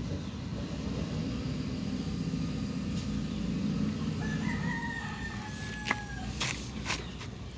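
A rooster crowing a little over four seconds in, one long held call that sags slightly in pitch, over a steady low rumble. A few sharp clicks follow near the end.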